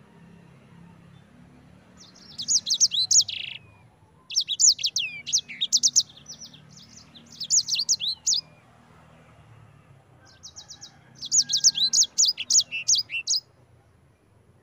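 Sanger (white-rumped seedeater, a small finch) singing in four bursts of rapid, high chirping trills.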